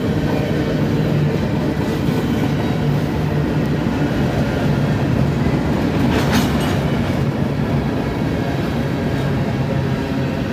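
A train rolling past close by, its cars' wheels running over the rail joints with a steady clickety-clack rumble. There is a short hiss about six seconds in.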